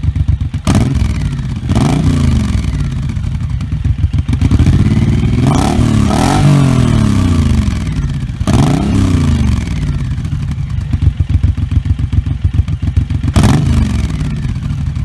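Suzuki M1800R Intruder's 1783 cc V-twin idling with a pulsing beat and being revved: short throttle blips about one and two seconds in, a longer rev that climbs and falls back in the middle, another near nine seconds and a last short blip near the end.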